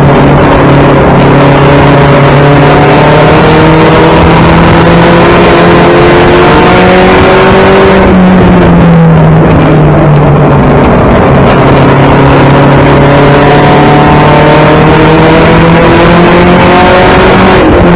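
1992 Toyota Celica GT race car's four-cylinder engine at racing speed, heard loud from inside its stripped cabin. Its pitch climbs slowly for several seconds, dips about eight seconds in, then climbs again and dips near the end, with the engine easing off for the turns of the oval.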